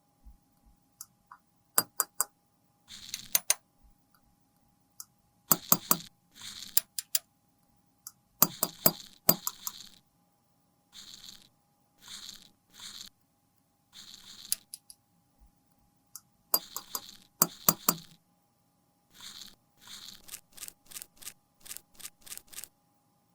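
Close-up handling of cosmetics and tools: sharp clicks and taps of small hard cases, with short scraping strokes in between, in irregular bursts separated by brief silences.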